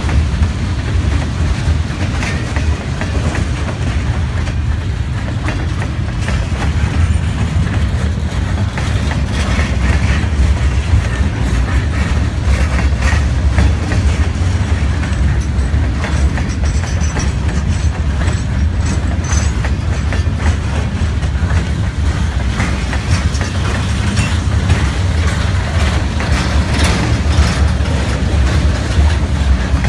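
Freight train's open-top gondola cars rolling past at steady speed: a continuous low rumble with the wheels clicking over the rail joints.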